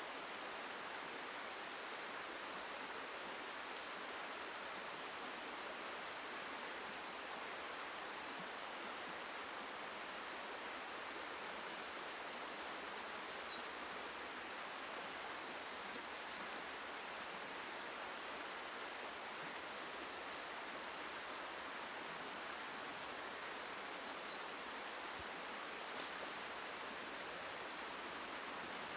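Steady, even rush of flowing river water, with a few faint high chirps over it.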